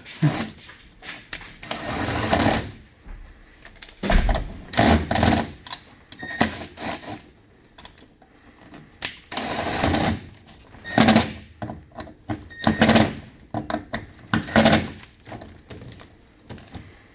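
A handheld power tool run in repeated short bursts of about half a second to a second each, several times over, with quieter working noise between.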